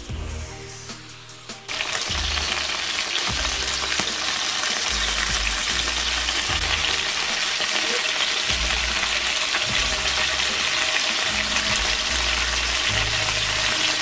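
Chicken, bell pepper and onion skewers sizzling and crackling in hot oil in a frying pan. The sizzle starts suddenly about two seconds in and stays steady.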